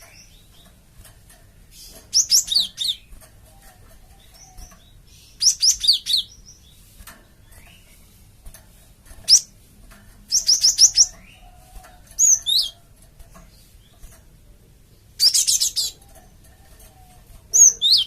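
Cinereous tit (gelatik batu) calling: about seven short bursts of rapid, high, sharp chirps, spaced a few seconds apart.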